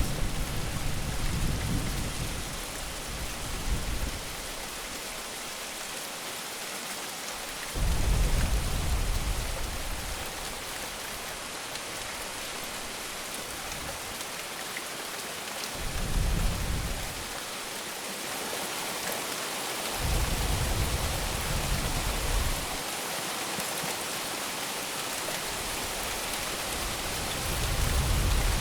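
Steady rain hissing, with low thunder rumbling in about five separate rolls of a few seconds each.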